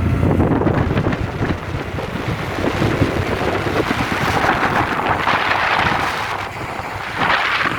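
Wind buffeting the microphone: an uneven low rumble, heaviest in the first second or so, over a rushing hiss that swells twice.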